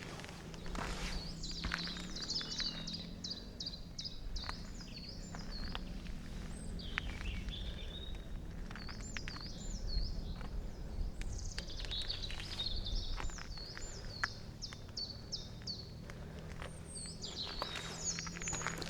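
A songbird singing phrases of quick, repeated high notes, four phrases of a few seconds each, with footsteps crunching on the forest floor between and under them.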